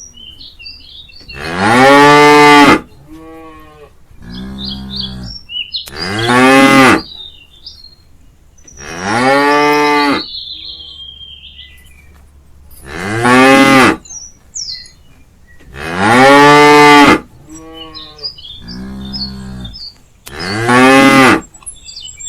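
A cow mooing over and over: six loud, drawn-out moos, each about a second long with the pitch rising and falling, spaced three to four seconds apart. Fainter moos come in between, and birds chirp in the gaps.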